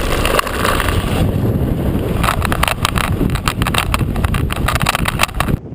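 Mountain bike rattling as it rides fast down a rough dirt trail, with wind noise on the camera microphone. From about two seconds in comes a quick run of rattling knocks over bumps, and near the end the sound drops off suddenly.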